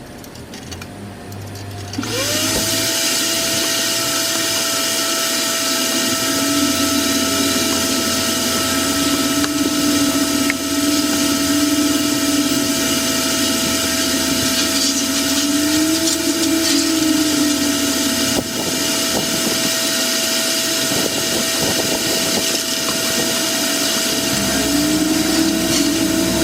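Vacuum cleaner switched on about two seconds in, its motor spinning up quickly to a steady whine with a lower hum that wavers as it runs. The owner finds its suction weak.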